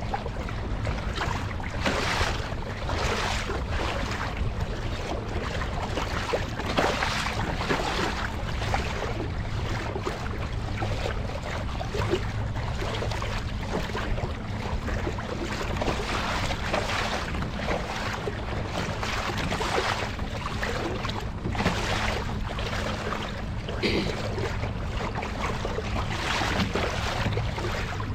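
Kayak being paddled across open water: paddle blades dipping and splashing every second or two over wind buffeting the microphone and water lapping at the hull.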